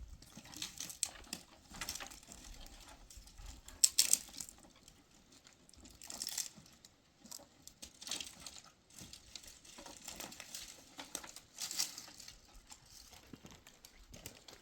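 Irregular rustling and crackling of dry material being handled, with a sharp snap about four seconds in and louder bursts of rustling around six and twelve seconds in.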